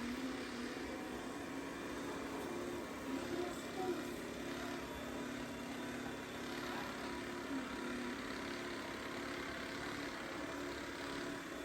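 Dreame X40 Ultra robot vacuum running, a steady motor and suction whir with an even hum throughout.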